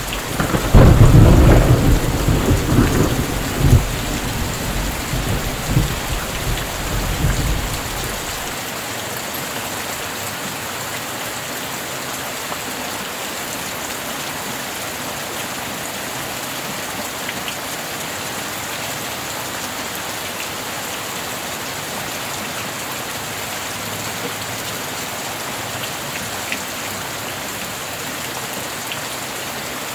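A thunderclap about half a second in, rumbling and rolling with several loud peaks for about eight seconds, over steady heavy rain. After that, only the steady rain.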